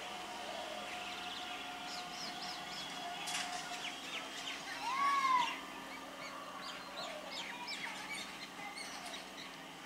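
Birds chirping and calling, with one louder arching call about halfway through. Under them runs a faint steady hum from the EMU local train at the platform.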